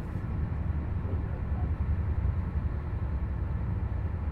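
Passenger train rolling along the track: a steady low rumble with an even hiss of running noise above it.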